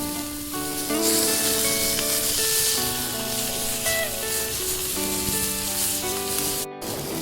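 Steak sizzling in a frying pan over a campfire, a steady hiss under background music, both cutting out for an instant near the end.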